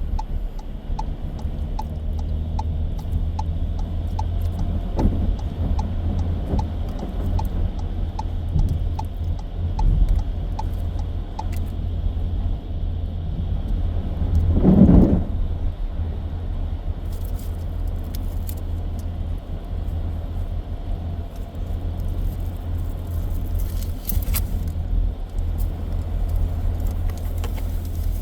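Steady low road rumble heard from inside a car driving on a snowy road, with faint regular ticks early on and one louder swelling rush about halfway through.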